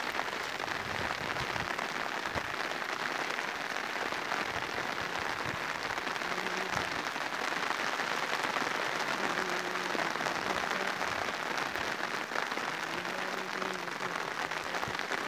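Steady rain falling, a dense, even patter of drops. A faint low tone comes and goes in the second half.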